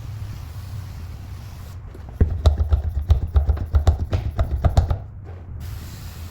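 A quick, irregular run of knocks and rubs, like hands handling and scrubbing something, lasting about three seconds over a steady low hum.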